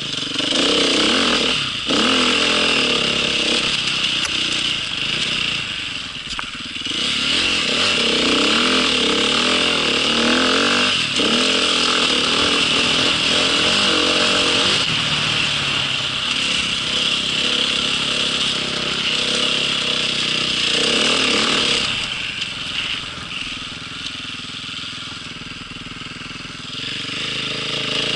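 Small vehicle engine running under way, its pitch rising and falling as the throttle changes, with a loud steady whine. It eases off somewhat about three-quarters of the way through.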